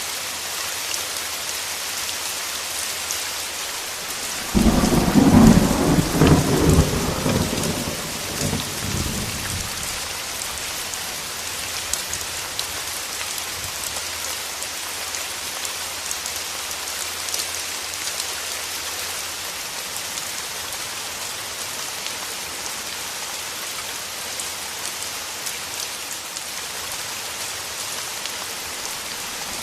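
Steady heavy rain hissing throughout, with a sudden clap of thunder about four and a half seconds in that rumbles on for about five seconds before the rain carries on alone.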